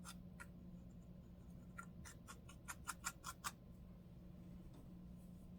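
Lice comb scratching across a dry, flaky scalp in short, quick strokes, loosening dandruff. There are a couple of strokes at the start, then a run of about eight in the middle, and then it goes quiet.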